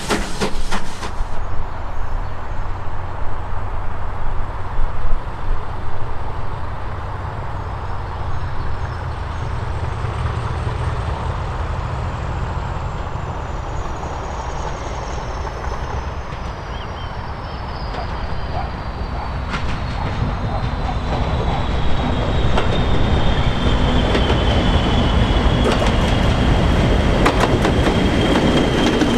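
A standard-gauge heritage train running past, wheels clattering over the rail joints, louder in the second half, with a high thin whine that slowly falls in pitch.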